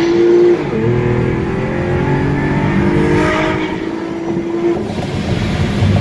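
Chevrolet Camaro V6 engine and exhaust running loud at high revs. The pitch dips briefly about a second in, then holds nearly steady before easing off near the end.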